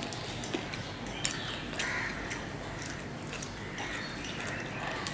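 A person chewing mutton biryani, with wet lip smacks and a few sharp clicks scattered through.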